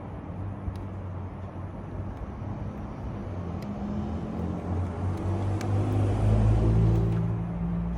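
2008 Toyota Camry engine cranking on the starter without catching: the starter turns the engine but the spark plugs are not firing. The cranking grows louder toward the end, then eases.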